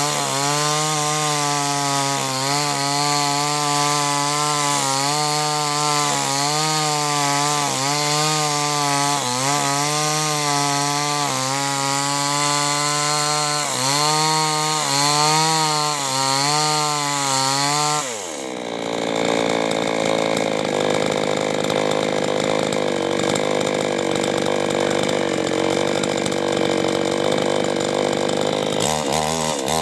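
Two-stroke chainsaw cutting wood at high revs, its engine note dipping briefly about once a second as the chain bites under load. About 18 seconds in, the pitch falls sharply and the sound changes to a denser, noisier running note that wavers in pitch.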